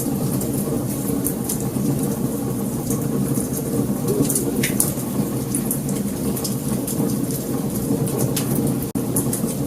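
Wood fire crackling: a steady low rush of burning with frequent sharp pops and snaps, and a momentary dropout near the end.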